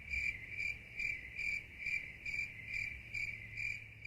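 A cricket chirping steadily at one high pitch, about two to three even chirps a second.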